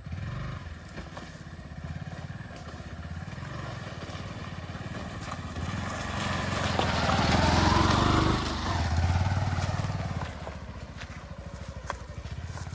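A motor vehicle engine running under load, swelling to a louder, rougher surge in the middle before easing back.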